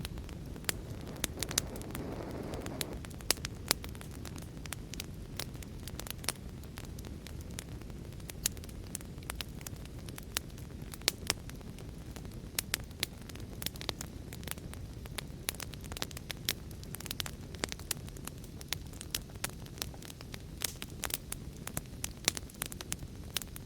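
Fire crackling: a steady low rumble of burning with frequent sharp, irregular pops and snaps, and a brief swell of hissing about two seconds in.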